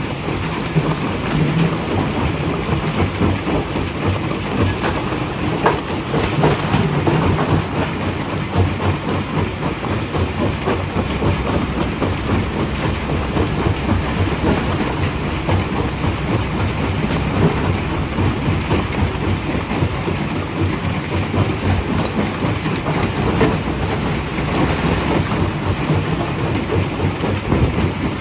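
Primary jaw crusher running at a rock-crushing plant, rock being broken in a steady, loud mechanical din with irregular knocks and clatter.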